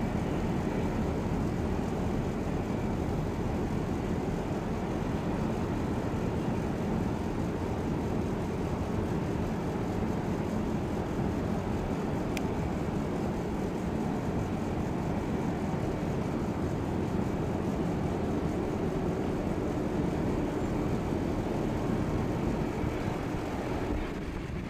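Jet airliner engines running, a steady low rumble that neither rises nor falls much.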